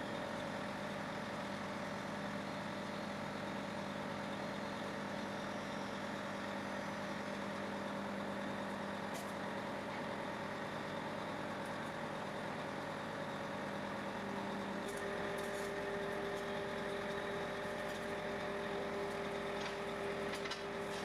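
Heavy machine engine idling steadily with a humming drone. About 15 seconds in, the drone's tone steps up to a higher pitch and holds there.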